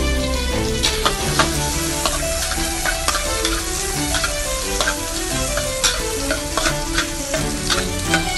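Food sizzling in hot oil in a wok while a metal spatula stirs it, with frequent sharp clicks and scrapes of the spatula against the pan. Background music with held notes plays along.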